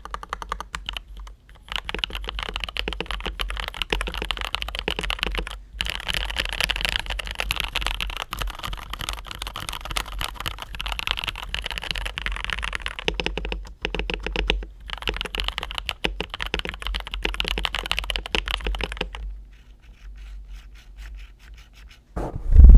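Fast, continuous typing on a modded TM680 mechanical keyboard with NovelKeys Cream linear switches, a dense run of key clacks with a few short pauses, thinning to lighter keystrokes near the end. A single loud thump comes just before the end.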